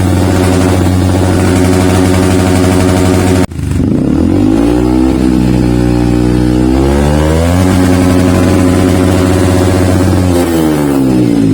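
Yamaha WR155's single-cylinder four-stroke engine revving through a Triton CR-5 stainless full-system aftermarket exhaust. The engine is held at high revs, then drops sharply about a third of the way in. It climbs steadily back up, holds, and falls again near the end.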